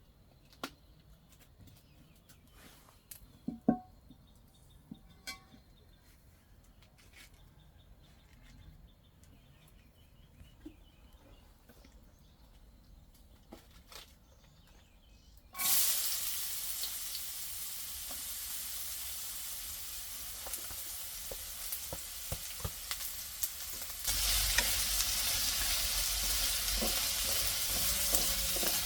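Food sizzling in hot oil, starting suddenly just over halfway through and growing louder again about two-thirds of the way in. Before it come a few scattered clicks and knocks.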